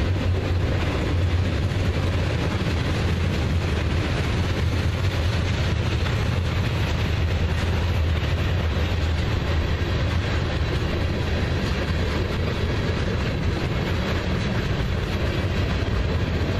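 Freight train rolling past on the tracks: a steady, continuous rumble of railcars on the rails with some clickety-clack.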